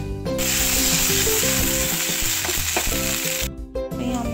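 Cubes of potato shallow-frying in hot mustard oil in a non-stick pan: a steady, loud sizzle that cuts off shortly before the end.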